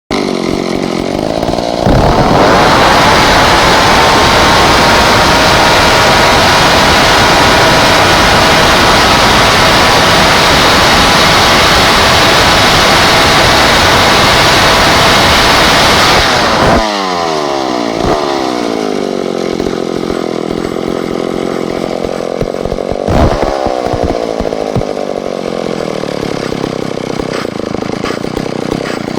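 Vintage McCulloch 250 two-stroke chainsaw idling, then held wide open for about fourteen seconds before dropping back to idle, with one short blip of the throttle later. It revs freely at full throttle, close to 8,000 rpm by the owner's count, above the 6,000 it is rated for.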